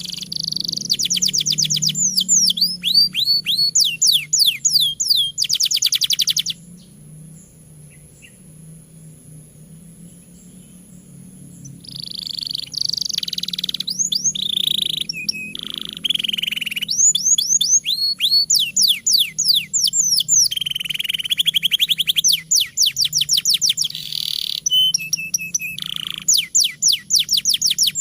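Domestic canary singing a long, vigorous song of fast trills and rapidly repeated chirping notes. It breaks off for about five seconds near the middle, then resumes.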